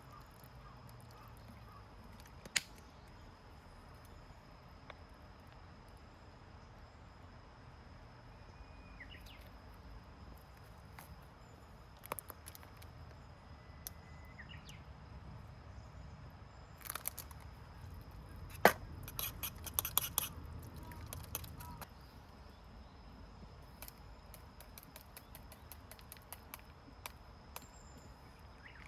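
Quiet woodland ambience: a steady high insect trill, a few faint bird chirps, and scattered sharp cracks and clicks, bunched most thickly a little past halfway.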